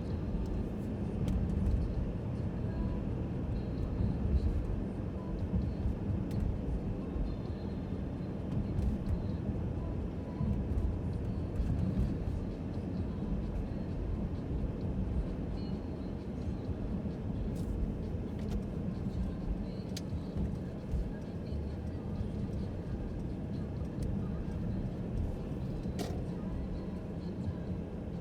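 Mercedes-Benz C300 (W205) driving along at a steady pace: a continuous low engine drone and road and tyre rumble, with a few faint ticks.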